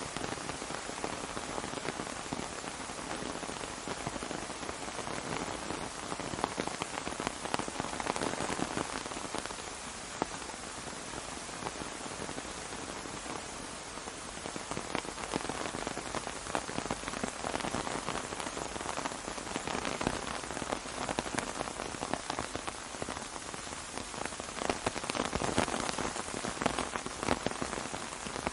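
Steady rain falling on an umbrella: a dense, even mass of drop hits with small swells in strength.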